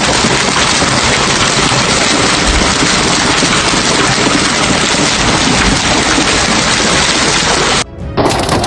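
Heavy rain pouring down in a steady, dense hiss with a low rumble underneath. It drops away briefly near the end, where another clip of similar rain noise begins.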